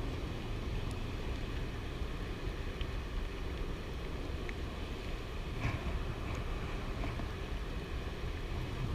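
Steady wind buffeting the microphone in a rumble, over a constant rush of fast river water below the dam.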